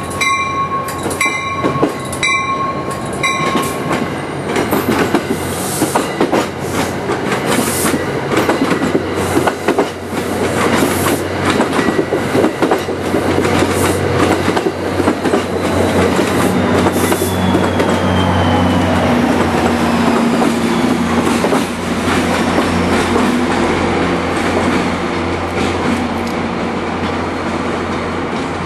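Commuter train rolling through the station, its wheels clicking over rail joints with a faint squeal. A bell dings in evenly spaced strokes during the first few seconds. From about halfway through, the low steady drone of the train's GP40PH-2 diesel locomotive comes in under the wheel noise.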